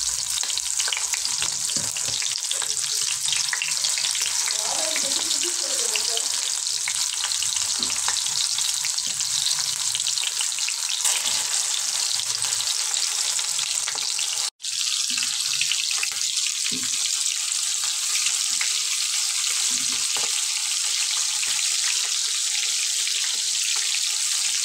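Masala-stuffed okra shallow-frying in hot oil in a pan: a steady crackling sizzle that breaks off for an instant about halfway through.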